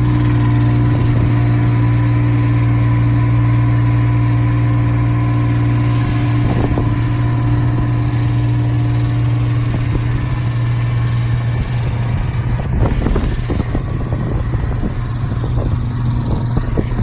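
Kubota three-cylinder pony motor running steadily on the bucket truck, there to power the boom hydraulics. About two-thirds of the way through, irregular knocks and rattles join the engine sound.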